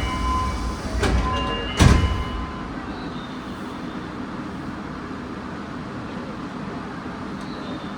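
Inside a Nagoya Municipal Subway 2000-series car stopped at a station: ringing tones and two knocks in the first two seconds, the loudest a heavy thud about two seconds in, then the standing car's steady low hum.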